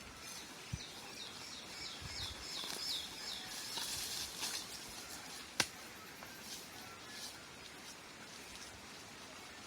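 A bird calling a quick run of about nine short falling notes, then a single sharp click about five and a half seconds in.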